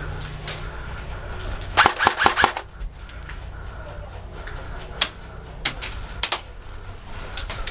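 Airsoft gunfire: a quick burst of about six sharp cracks around two seconds in, then single shots spaced out over the next few seconds, over a low rumble of wind and handling on the microphone.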